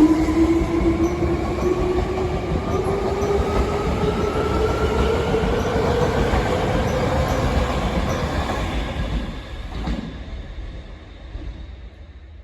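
Hankyu 3300 series electric train accelerating, its traction motors and gears whining in a pitch that rises steadily over the running rumble of the train. The sound fades away near the end.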